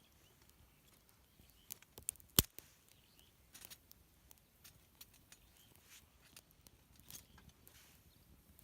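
Faint, scattered clicks and taps, with one sharper knock about two and a half seconds in.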